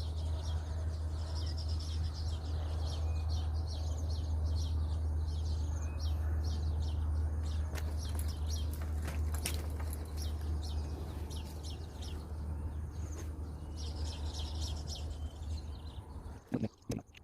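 Birds chirping, with many short repeated calls, over a strong steady low hum that stops about sixteen seconds in, followed by a few knocks.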